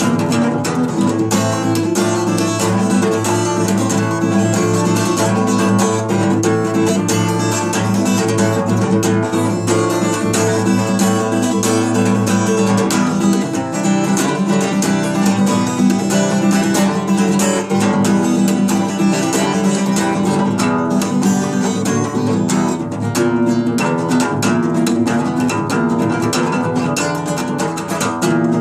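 Acoustic guitar played in a steady, continuous rhythm, chords ringing; the bass note changes a little under halfway through.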